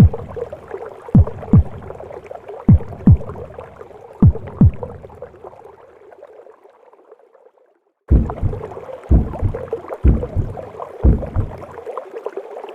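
Recorded heartbeat in the womb: paired low lub-dub thumps about every second and a half over a steady whooshing womb noise. About six seconds in, the sound fades away, then starts again abruptly about two seconds later.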